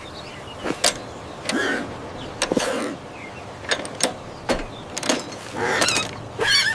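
Cartoon sound effects: a run of sharp clicks and knocks, about a dozen, mixed with short squeaky chirps that bend up and down in pitch.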